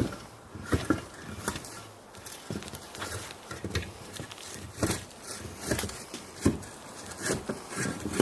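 Irregular knocks and thuds, about one or two a second, with no steady rhythm.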